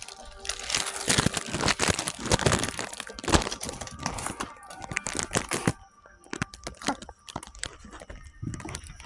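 Dense, irregular crackling and crinkling, thinning out about six seconds in.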